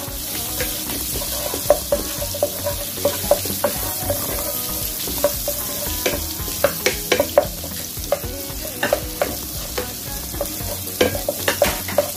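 Chopped onion and garlic sizzling in melted butter in a frying pan, with a wooden spatula scraping and tapping against the pan as they are stirred in quick, irregular strokes.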